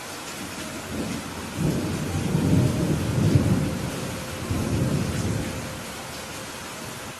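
Steady rain with a low rumble of thunder that builds about a second in, peaks in the middle and fades out near the end.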